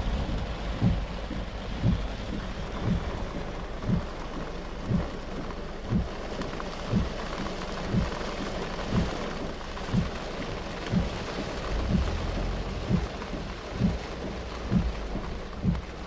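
Heavy rain drumming on a car, with the windscreen wipers thudding at the end of each stroke about once a second.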